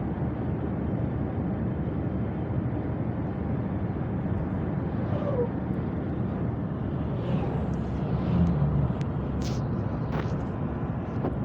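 Steady road and engine noise of a moving car, with a few faint clicks in the last few seconds.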